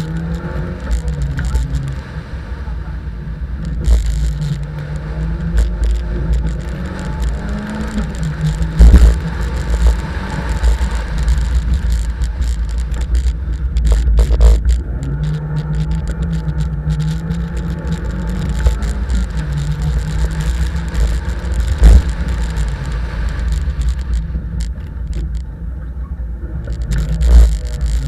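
Fiat rally car's engine at full throttle on a tarmac stage, revs climbing and dropping back again and again as it accelerates and shifts gear, over steady road and wind rumble. Several sharp knocks cut through, the loudest about a third of the way in and about three-quarters through.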